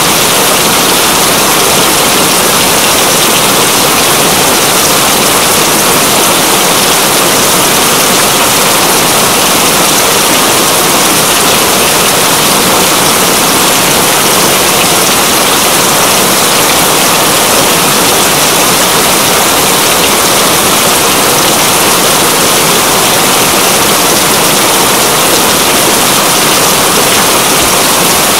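Steady, heavy rain: a dense, even wash of falling water with no let-up.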